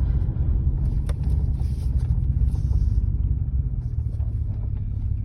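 Low, steady rumble of a 2004 Chevy Z71 pickup's stock 5.3-litre V8 and its loud aftermarket exhaust, heard from inside the cab as the truck pulls on a 0-to-60 run.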